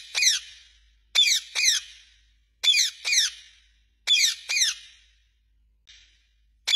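Parrot giving short, high squeaky calls in pairs, each call sliding down in pitch, with one pair about every second and a half.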